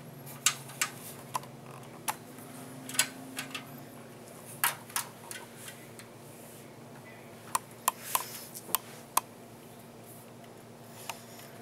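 Irregular small sharp clicks and taps, about fifteen of them, of a screwdriver and screws on a metal computer case as the case screws go back in. A faint steady low hum runs underneath.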